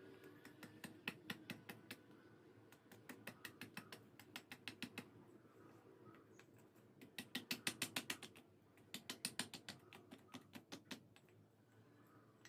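Quick runs of light clicks or taps, about six a second, coming in bursts of one to two seconds with short pauses between them.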